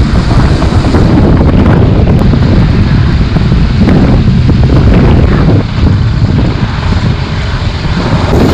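Motorcycle riding noise: a loud, steady rush of wind buffeting the microphone, with the vehicle's running noise beneath.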